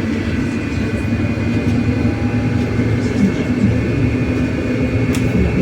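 Cabin noise of a MAZ-303E10 electric bus under way: a steady low rumble of the ride with a thin, steady high whine over it.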